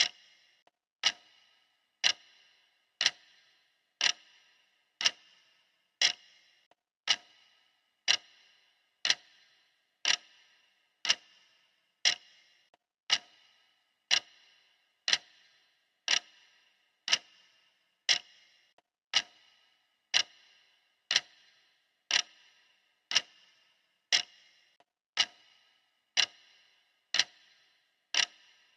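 Clock ticking steadily, one sharp tick a second, each with a short metallic ring.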